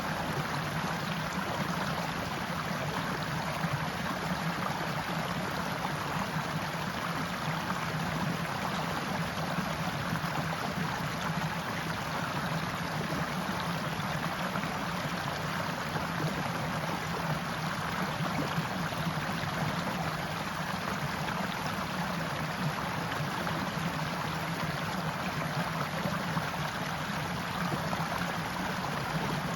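A stream flowing steadily: an even, unbroken rush of water.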